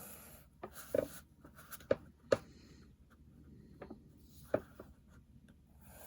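A number 2 graphite pencil scratching across paper in short strokes, with four sharp taps or clicks in between.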